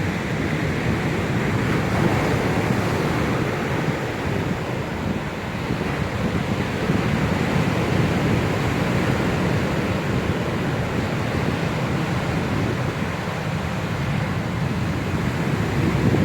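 Rough sea in a storm, surf breaking and washing ashore, under strong wind blowing across the microphone, heard as a steady deep rumble.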